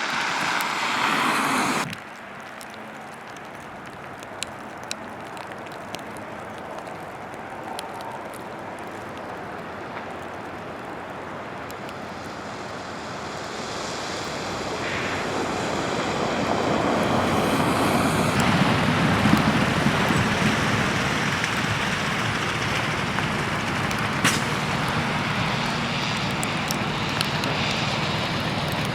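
Highway traffic noise: vehicles running past. A loud stretch cuts off suddenly about two seconds in, then a vehicle approaches and passes close, loudest a little past the middle, with traffic noise staying fairly loud to the end.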